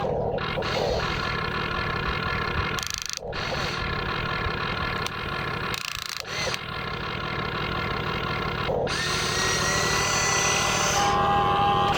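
Radio-controlled construction models' small electric motors and gearing whining, in a steady, power-tool-like drone with several pitches at once. The sound drops out briefly twice, about three and six seconds in.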